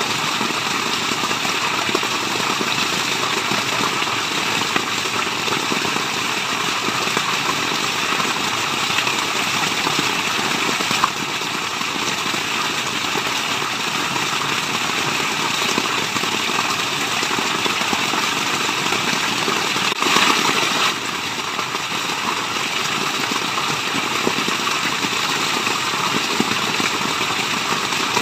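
Waterfall: a steady rush of falling water, an even noise with a brief louder surge about twenty seconds in.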